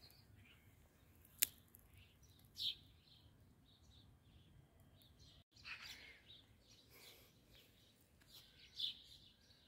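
Garden birds chirping and calling: scattered short calls over a faint outdoor background, with a single sharp click about a second and a half in.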